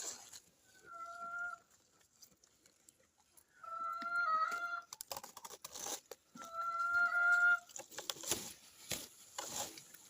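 Three drawn-out farm-animal calls, each about a second long and steady in pitch, with short crackly rustling and crunching between them and more of it near the end, likely from the sheep feeding.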